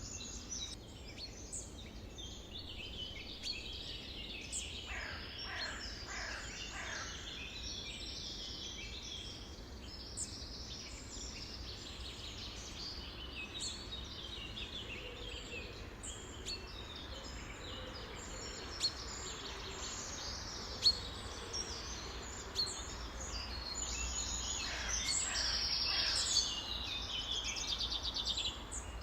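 A chorus of many birds chirping and calling over one another, with a run of falling whistles about five seconds in and again near the end, where a rapid trill also rises above the rest.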